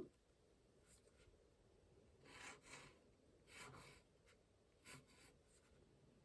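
Faint scratching of a fine ink pen drawing on watercolour paper: a light tap at the start, then a few short strokes, the clearest about two and a half and three and a half seconds in.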